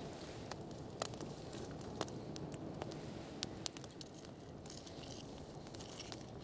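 Campfire burning with irregular sharp crackles and pops over a steady low rush.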